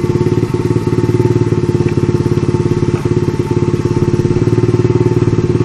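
125 cc dirt bike engine idling steadily, loud and close, with an even rapid firing pulse and no revving.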